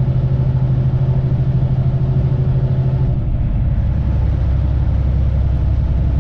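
Loaded semi truck's diesel engine running steadily under load while driving, heard from the cab with road noise; about three seconds in the engine note drops to a lower pitch as the revs fall.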